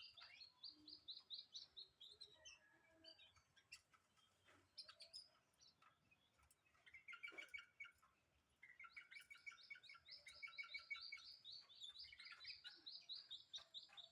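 Pet white-eye (pleci) singing faintly: fast runs of short high chirps, breaking off for a few seconds in the middle, then starting again in a long run.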